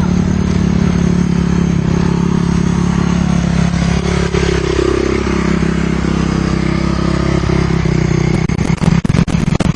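Enduro motorcycle engines running steadily, with one engine note falling sharply in pitch about four seconds in. Near the end comes a rapid run of crackling clicks.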